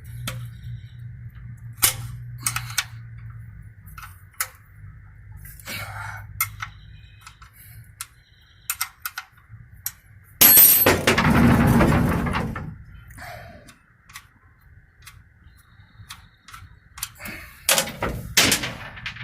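Metal clinks and clicks of a 14 mm wrench loosening a car's oil drain plug, with a loud two-second rush of noise about ten seconds in and a few more clinks near the end.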